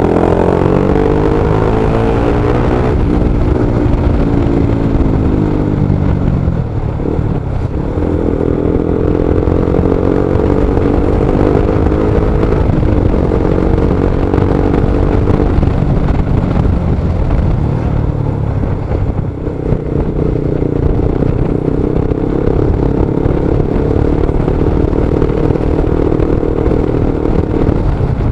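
Motorcycle engine running under way, its pitch falling and rising several times as the rider slows and speeds up in stop-and-go traffic, over a steady low rumble of road and wind noise.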